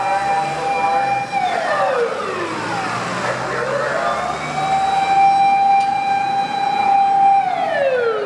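Fire engine siren wailing: a high tone that holds, falls away, climbs back up and holds again, then falls near the end.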